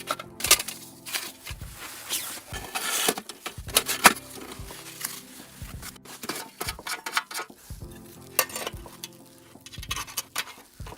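Irregular clicks, knocks and scrapes of things being handled, over soft background music.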